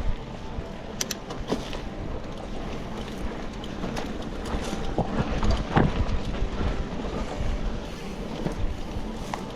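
Wind buffeting the microphone of a riding bike-mounted camera, with steady road rumble and a few sharp clicks or rattles.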